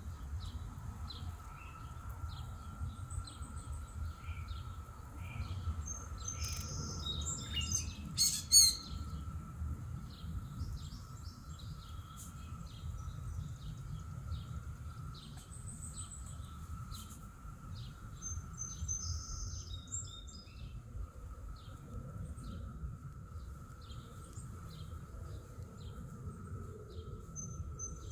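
Songbirds chirping and calling in quick, scattered notes over a steady high hum and a low background rumble, with one sharp click about eight seconds in.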